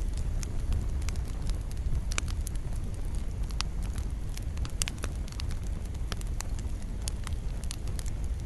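Campfire of burning wood: a steady low rumble of flames with frequent irregular sharp crackles and pops.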